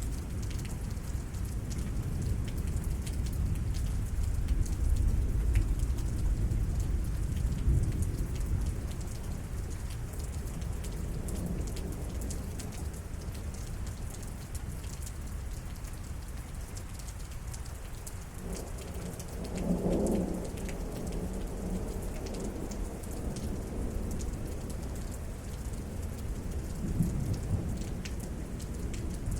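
Steady rain falling with drips, under rolling thunder that rumbles loudest in the first several seconds and then fades. There is a brief louder rumble about twenty seconds in.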